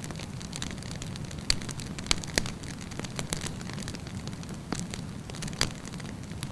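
Wood campfire burning and crackling: several sharp snaps and pops at irregular moments over a steady low rumble of the flames.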